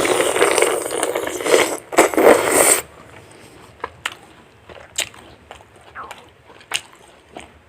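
Eating crispy whole fried chicken: a loud crackling, scraping noise for the first three seconds, then scattered soft crunches and clicks of chewing.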